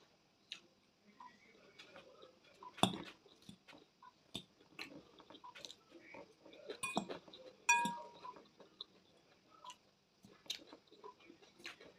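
Eating salad close to the microphone: scattered small crunches and clicks of chewing, with a few sharper clinks of a fork on a plate or bowl, the last one ringing briefly.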